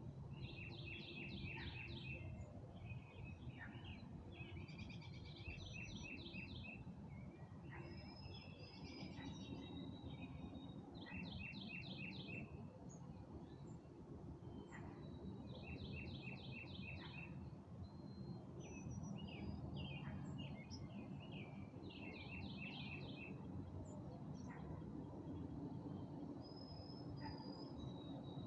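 A songbird repeating a short, rapid run of high notes about every five to six seconds, with other birds chirping now and then. Underneath is a faint, steady low rumble of background noise.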